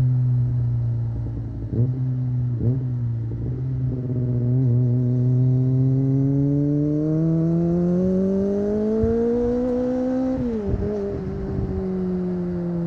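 Kawasaki ZX-25R's 249 cc inline-four through an Akrapovic exhaust, heard onboard while riding. The engine runs steady, dips briefly twice near the start, climbs slowly in pitch for about six seconds as it pulls, then drops sharply about ten and a half seconds in and settles at a lower steady pitch.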